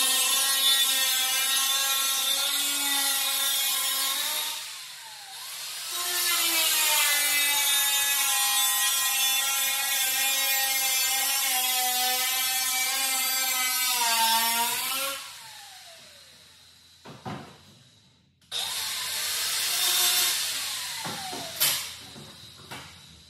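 A power cutting tool cutting the rusty sheet-metal rear quarter panel of a 1968 Camaro. It runs in long passes with a whine that dips in pitch as it bites and recovers, and winds down twice, about 5 and 15 seconds in. A shorter cut follows near the end, with a few sharp knocks.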